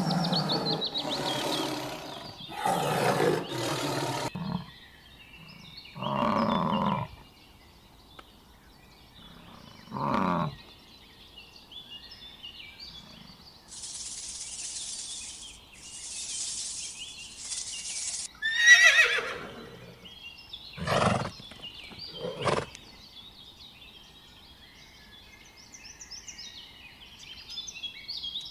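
A series of separate animal calls, one after another, each a second or a few seconds long, with a high call falling in pitch a little past the middle. Three short hiss-like noises come shortly before that, and faint bird chirps run through the last few seconds.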